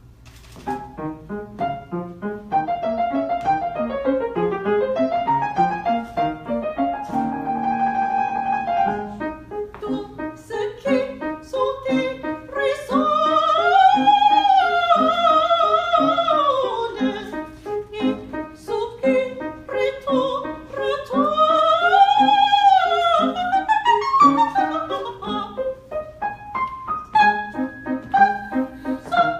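Classical music: piano accompaniment with an operatic singing voice, which holds two long notes with wide vibrato, one around the middle and one about two-thirds of the way through.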